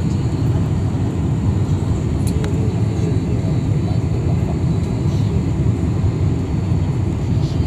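Steady low rumble of a Boeing 747-400 jet airliner, with a faint steady high whine above it.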